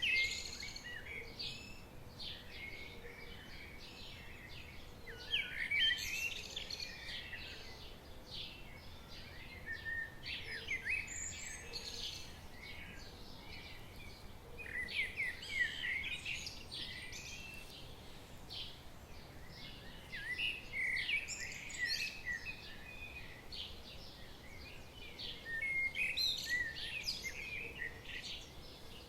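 Several songbirds singing and chirping in bursts every five seconds or so, over a steady background rush.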